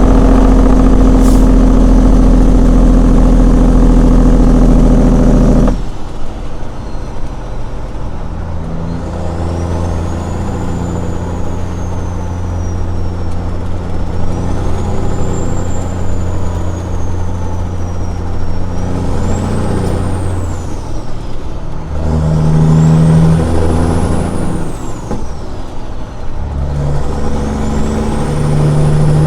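Caterpillar 6NZ inline-six diesel running through straight pipes, loud and steady for about six seconds before cutting off suddenly. It then runs quieter, with a turbo whistle rising and falling and the engine note shifting several times as the truck pulls through the gears.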